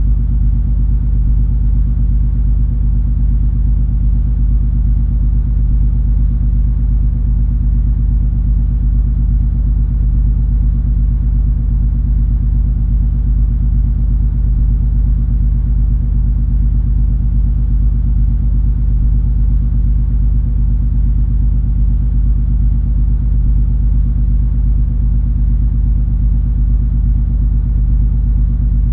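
Steady low rumble and engine drone of the cruise ferry MS Color Magic under way, with a constant low hum and no change in pitch or level.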